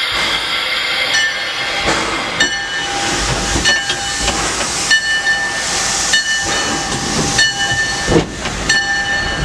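Steam locomotive hissing steam, with its bell ringing about once every second and a quarter.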